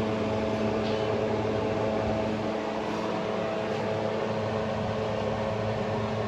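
Toyota Corolla XLi engine running steadily with an even hum. The car is in for an abnormal engine noise.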